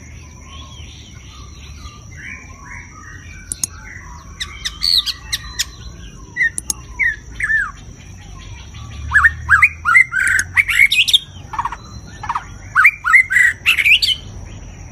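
White-rumped shama singing: bursts of loud, fast whistled notes mixed with sharp clicks, about four, ten and thirteen seconds in, with softer warbling between them.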